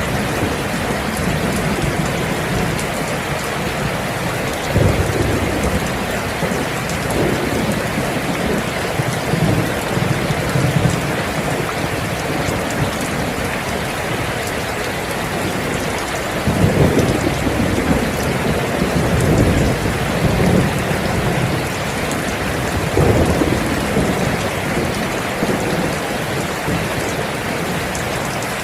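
Steady heavy rain, with low rumbles of thunder swelling up three or so times.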